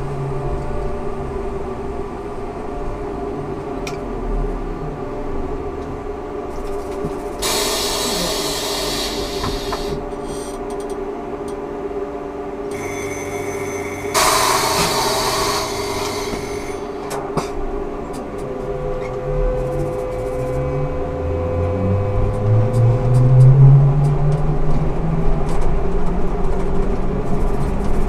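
Ikarus 280T trolleybus with a steady electrical hum from its equipment and two loud bursts of air hiss about 8 and 14 seconds in. From about 20 seconds in, the electric traction motor's whine rises steadily in pitch as the trolleybus pulls away and gathers speed.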